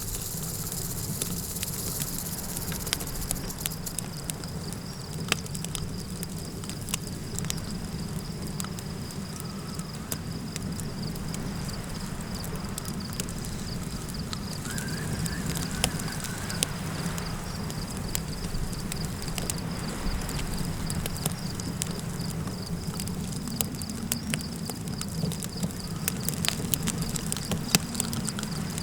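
Campfire crackling with sharp, irregular pops over a steady low rumble of wind, while an insect, a cricket, trills steadily on one high note.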